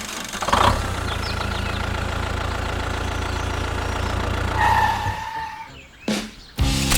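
A vehicle engine running steadily, starting about half a second in and dying away near six seconds. Music comes in near the end.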